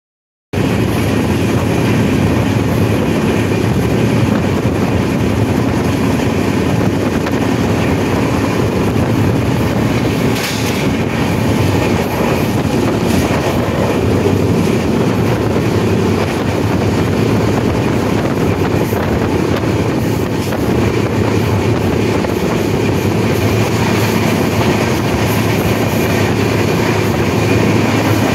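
Steady running noise of a moving Indian Railways passenger train at speed, heard from beside an open door of its coach.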